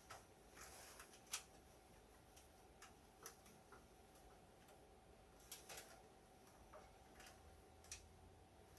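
Faint, irregular light clicks and knocks from an HP 3458A multimeter's opened chassis being turned and tilted by hand, checking for loose parts; no rattle of anything loose inside.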